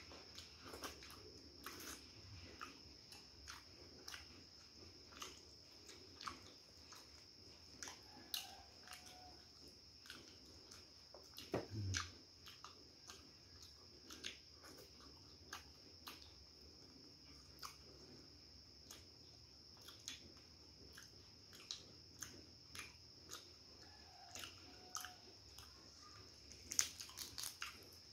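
Fried chicken being chewed and bitten: scattered faint crunches and wet mouth clicks, with a steady faint high-pitched whine underneath.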